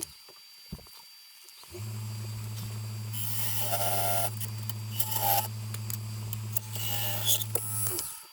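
Wood lathe running with a steady low hum, while a turning tool makes short scraping cuts in wet green poplar during hollowing, three times. The hum comes in about two seconds in and stops just before the end.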